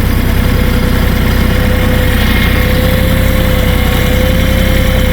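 Kioti 3520HST compact diesel tractor running steadily, its engine note even with a steady whining tone over it.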